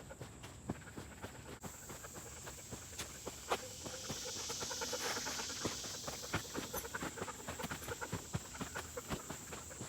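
Footsteps of a hiker walking on a trail: a run of irregular soft steps and small knocks, with a faint hiss that swells for a couple of seconds midway.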